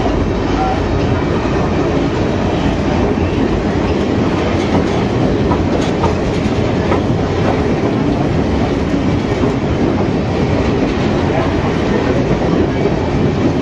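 Train of open-sided passenger cars rolling along the track from on board: a loud, steady rumble with occasional wheel clicks.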